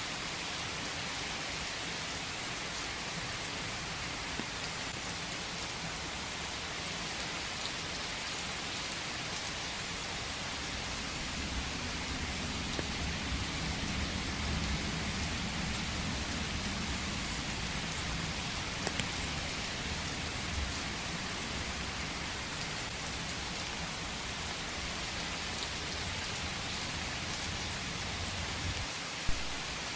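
Steady rain falling in a forest, an even hiss of drops with scattered sharper drop taps. A low rumble swells and fades in the middle, and one louder tap comes near the end.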